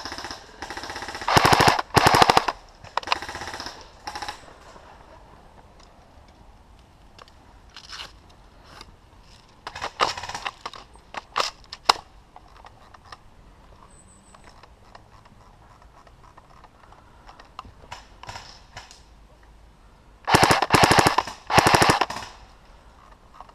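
Airsoft electric guns firing full-auto bursts: two loud rapid bursts about two seconds in and a fainter one after, then scattered single pops and BB hits, and two more loud bursts near the end.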